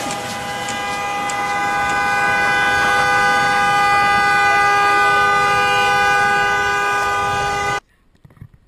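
A vehicle horn held down in one long steady blast of several tones sounding together, lasting about seven seconds before it cuts off abruptly near the end.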